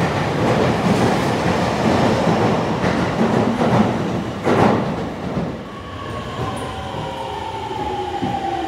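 Electric train running along the station platform, a loud rumble of wheels on rails. From about six seconds in, a whine falls slowly in pitch as the train slows.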